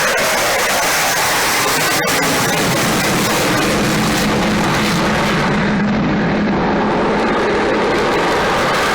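Avro Vulcan XH558's four Rolls-Royce Olympus jet engines, very loud and steady as the bomber flies its display. The high end dulls for a couple of seconds past the middle and then comes back.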